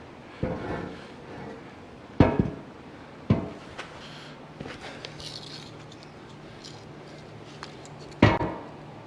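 Steel parts clanking and knocking as they are handled in a workshop: a handful of sharp metallic knocks, the loudest near the end, with a faint steady hum from about halfway in.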